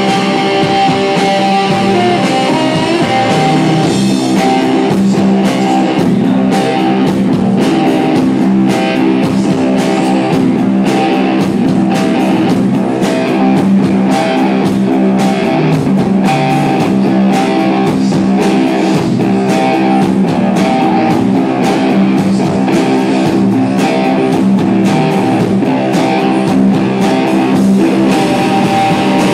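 Rock band playing live with no singing: strummed guitars, joined about four seconds in by a steady drum beat.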